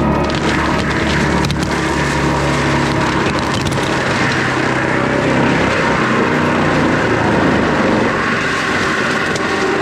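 Skid steer's diesel engine running under load, driving a forestry mulcher head that is shredding brush and small trees.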